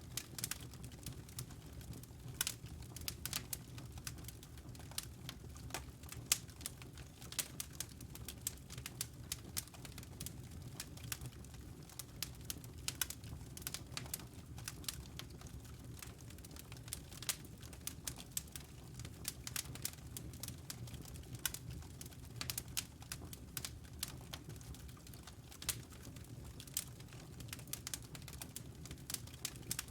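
Wood fire burning in a fireplace: irregular sharp crackles and pops from the burning logs over a low steady rush of the flames.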